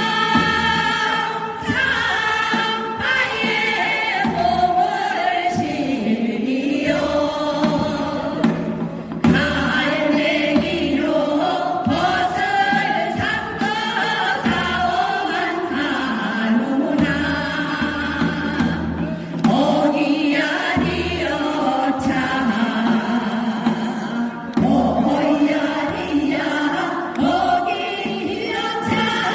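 A choir singing, with a low beat repeating in the accompaniment.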